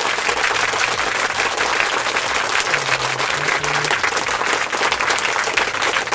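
Steady applause, many hands clapping at once.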